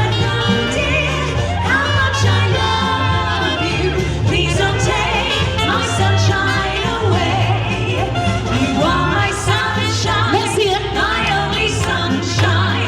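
Female vocal trio singing close harmony in a 1940s wartime song, over a swing-style backing with a steady bass and beat.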